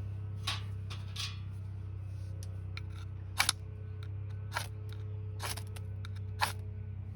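A scattered series of short, sharp clicks and light knocks, two in quick succession near the middle, over a steady low hum.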